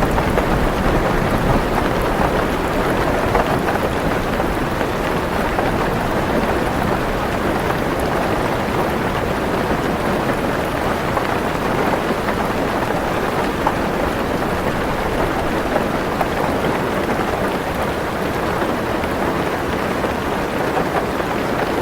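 Heavy rain drumming steadily on a car roof, heard from inside the car. A low thunder rumble fades out just after the start.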